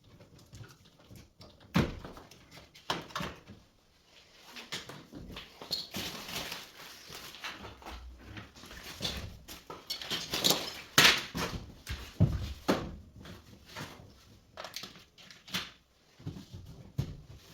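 Irregular clicks, knocks and scraping, as of parts and tools being handled, with the loudest knocks about two seconds in and about eleven seconds in.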